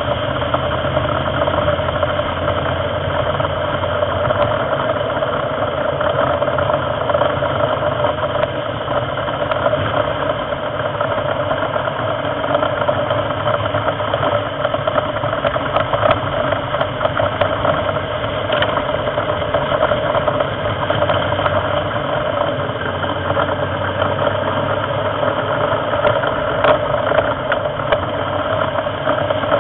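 Onboard sound of a racing car on track: its engine running at a steady note throughout, mixed with wind and road noise.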